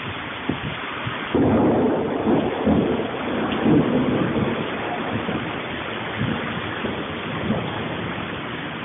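Rain falling steadily, with a rumble of thunder coming in about a second and a half in and dying away over the next few seconds.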